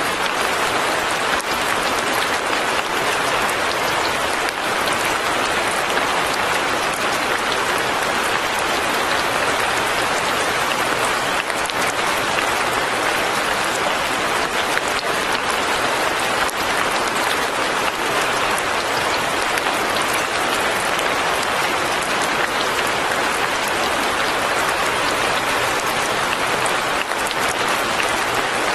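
Steady fine rain falling, a dense, even patter with no change in strength.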